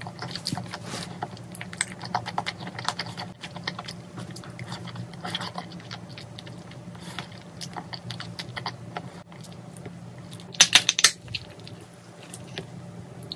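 Close-miked eating: chewing and biting glass noodles and chicken, a run of short wet smacking sounds, with a louder burst of eating noises about eleven seconds in. A faint steady low hum sits underneath.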